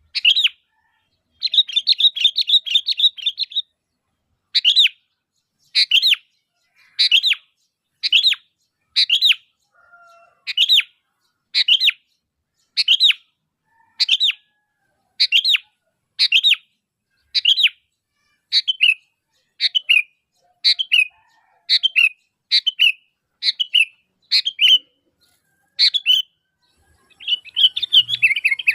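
Sooty-headed bulbul (kutilang) calling: a fast chattering run near the start, then short calls repeated about once a second, and another chattering burst near the end.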